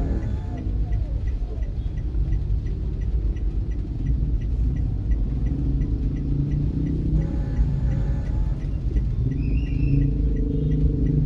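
Steady low rumble of a motor vehicle running, with a faint, evenly spaced ticking throughout.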